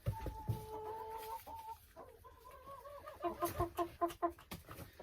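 Domestic chickens calling: one drawn-out call lasting about a second near the start, then a quick run of about five clucks a little past halfway. A few sharp knocks sound in between.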